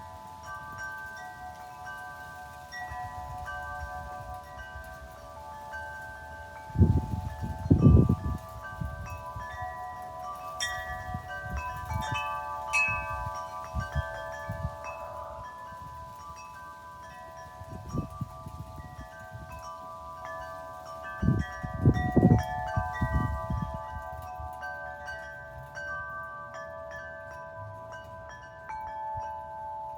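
Metal wind chimes ringing in the breeze, many clear tones struck over and over and left to fade. Wind buffets the microphone in two loud gusts, one about seven seconds in and one past the twenty-second mark.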